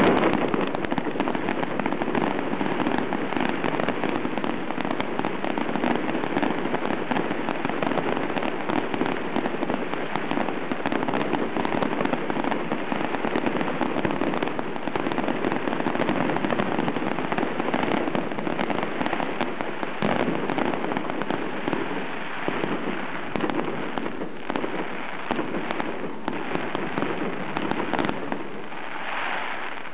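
Fireworks display: a dense, continuous crackle of many pops and bangs from bursting shells and fountains, with no pause, thinning slightly near the end.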